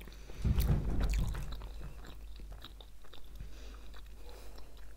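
Close-miked chewing of Kinder Milk Slices, soft sponge bars with a milk filling, with moist mouth clicks. The chewing is loudest and lowest between about half a second and a second and a half in, then goes on more quietly.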